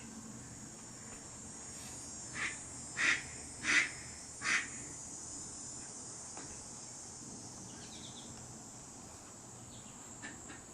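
Crickets chirring in a steady, high-pitched trill. Four short, loud calls from another animal break in about two to four and a half seconds in.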